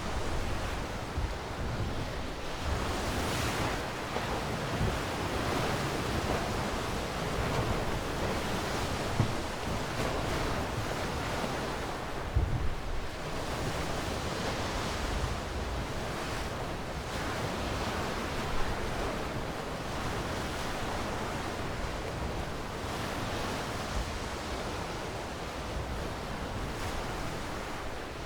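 Sea waves washing onto a shore: a steady surf that swells and eases every few seconds, with a few brief low thumps.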